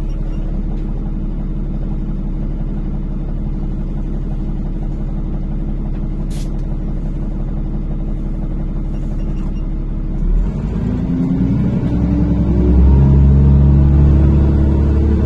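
NefAZ-5299 city bus running, heard from inside the passenger cabin: a steady low engine hum, then about ten seconds in the engine revs up and grows louder as the bus accelerates.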